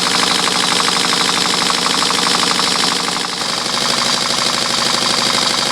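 Homemade V-twin steam engine running fast, its exhaust beating in a rapid, even rhythm with mechanical clatter. The beat eases slightly about halfway through.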